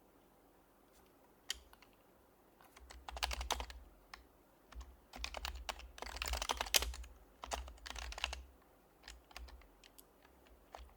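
Typing on an HHKB Professional HYBRID Type-S keyboard with silenced Topre switches: after a lone click, three quick bursts of rapid keystrokes with short pauses between them, then a few scattered single keys near the end.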